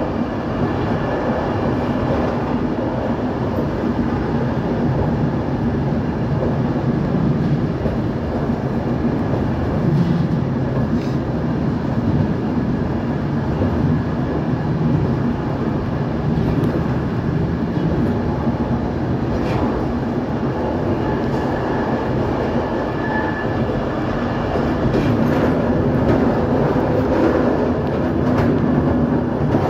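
Train running along the rails: a steady noise of wheels on track with occasional faint clicks, growing a little louder near the end.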